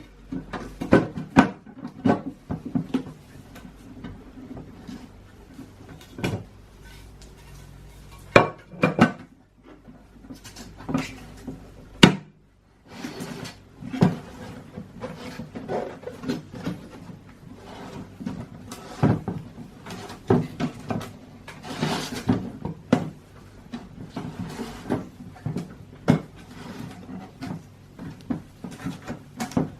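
Irregular clicks, knocks and scrapes of a clear replacement headlight lens being handled, pushed and test-fitted into a Tofaş headlight housing, with a short pause about twelve seconds in.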